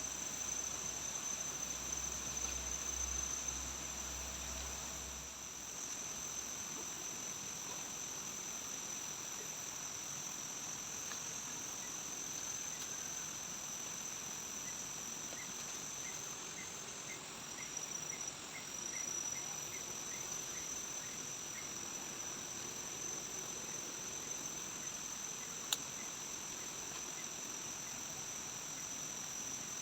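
Steady high-pitched chorus of forest insects, with a run of quick, evenly spaced ticks from another insect in the middle and one sharp click near the end.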